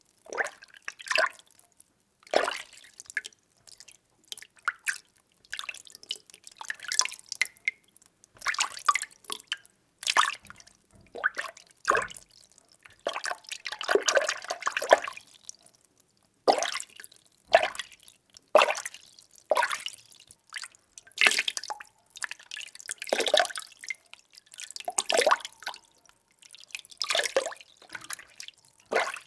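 Water being stirred by hand in a container: irregular swishing, sloshing and small splashes, roughly one or two strokes a second with short quiet gaps between them.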